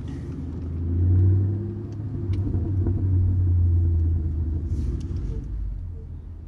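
Straight-piped 5.4-litre Boss 260 V8 of a 2005 Ford BA XR8 ute, heard from a microphone at the exhaust, rumbling deeply at low revs. It swells about a second in and again a few seconds later, then eases near the end.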